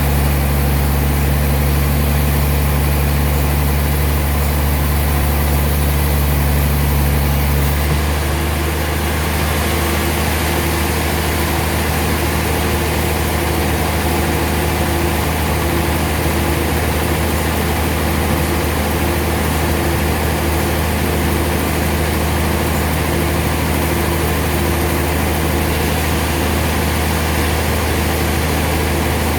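Sawmill machinery running: a loud, steady, engine-like drone with a deep hum. About 8 s in the tone shifts and a faint, even pulsing comes in.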